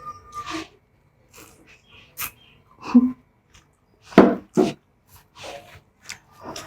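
Close-up eating sounds of a person eating spicy instant noodles: irregular wet mouth noises and slurps, loudest about three and four seconds in.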